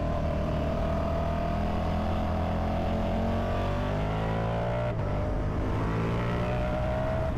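Ducati Multistrada V4 Pikes Peak's V4 engine pulling under way, its note climbing slowly, with a brief break about five seconds in before it climbs again, over the rush of wind.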